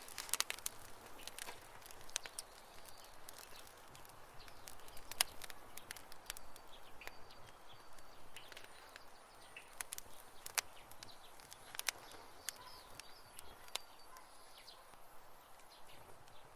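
Campfire crackling: irregular sharp pops and snaps of burning wood over a soft hiss. A few faint short high chirps sound now and then, a few seconds in and again late on.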